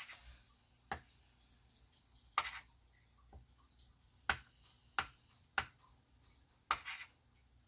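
A small glass repeatedly set and rolled against glossy photo paper on the table, making a series of sharp, irregular taps, about one a second. Two of the taps are a little longer and scrape-like.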